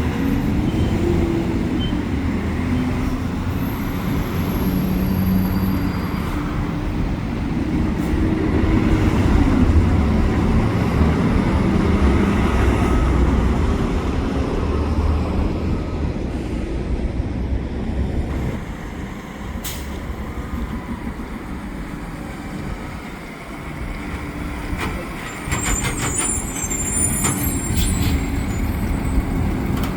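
Heavy diesel truck engine running as it moves, its pitch shifting, growing louder over the first ten seconds and easing off after about eighteen. Near the end a high hiss and squeal of air brakes.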